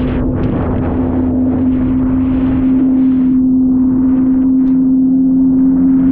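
Jet ski engine running at steady revs, holding one even droning tone, with rushing wind and water noise around it that grows a little louder about halfway through.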